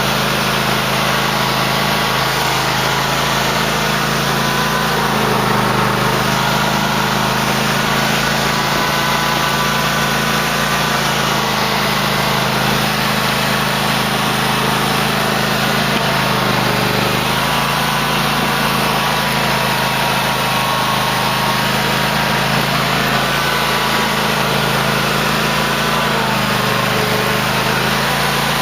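Cub Cadet LT1050 lawn tractor engine running steadily under snow-plowing work, its pitch dipping briefly a few times as it takes load.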